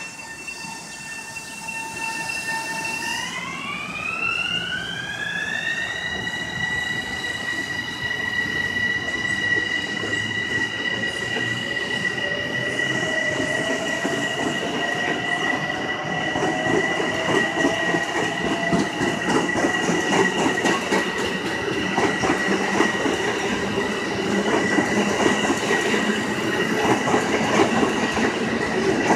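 Electric train: a high-pitched whine rises in pitch about three seconds in and then holds steady, while the rumble and clatter of wheels on rail grow steadily louder.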